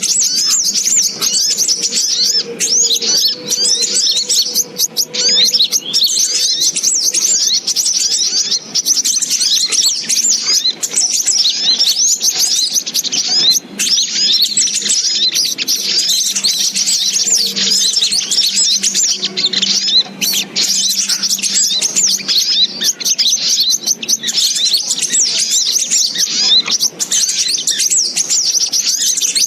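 Dense, unbroken chorus of rapid, high-pitched chirps and twitters from sogok ontong sunbirds, played as a lure call to draw the birds in.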